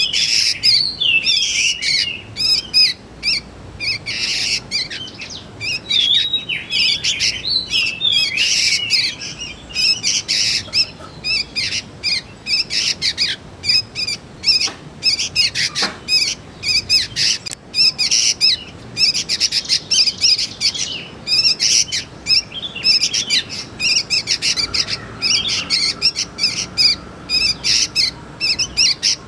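Juvenile sooty-headed bulbuls (kutilang) calling: a dense, fast run of short, high chirps and squeaky calls with hardly a pause.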